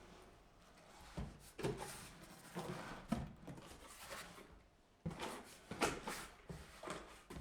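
Household objects being handled: a string of light knocks and clicks with rustling between them, with a quieter pause a little past the middle.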